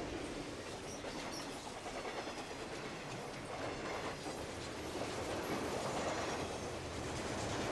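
Train running along the rails, a steady rumbling, rattling noise that grows a little louder near the end.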